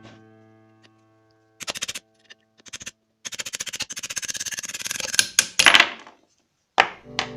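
Rapid mechanical clicking in short bursts, then a steady run of quick clicks lasting about three seconds, from a five-thread overlock sewing machine's mechanism, with two sharp knocks near the end. Background music fades out at the start and comes back at the very end.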